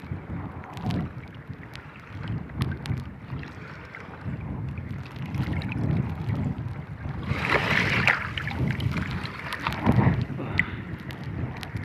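Strong wind buffeting the microphone over choppy water around a small fishing boat, a gusty low rumble with scattered knocks and a louder rushing splash about seven seconds in.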